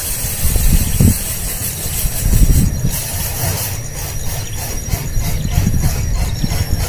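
Young birds begging for food with repeated high squealing calls, over a steady low rumble.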